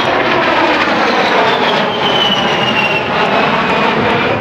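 A-10 Thunderbolt II's two TF34 turbofan engines in a low pass: a loud steady rush of jet noise with the engines' high whistle sliding slowly down in pitch as the jet goes by.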